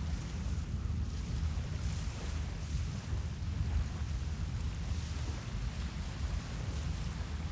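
Wind buffeting the phone's microphone, a steady gusty low rumble with faint hiss above it.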